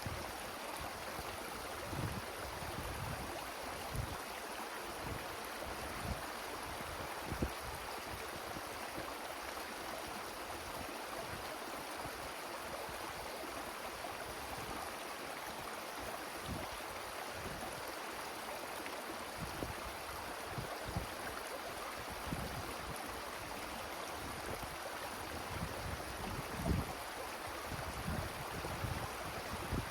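Wind blowing through forest trees as a steady rushing hiss, with irregular low gusts buffeting the microphone every second or two.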